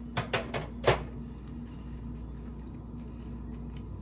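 Four crisp crunches within about the first second, the last one loudest, as fried breaded cicadas are chewed.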